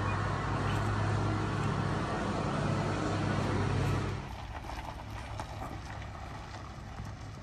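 Car engine running steadily with a low, even hum; about four seconds in it gives way to quieter outdoor background with a few faint ticks.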